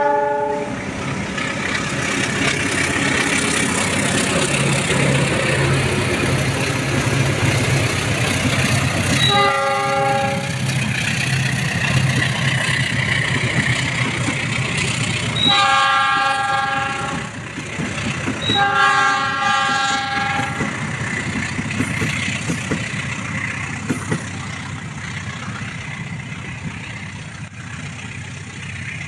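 Diesel-hauled passenger train passing, its locomotive horn sounding several times. The tail of one blast falls at the very start, another comes about ten seconds in, and two more come a few seconds apart past the middle. Under them run a steady low engine hum and the rolling of the coaches on the rails, fading as the train moves away.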